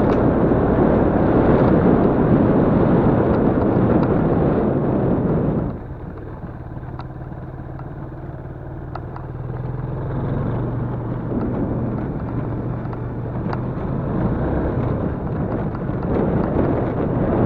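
Yamaha Crypton-X's single-cylinder four-stroke engine running on the move, with heavy wind noise on the microphone. About six seconds in the wind noise drops away and the engine's steady low hum comes through at low speed, then the noise builds again as it picks up speed.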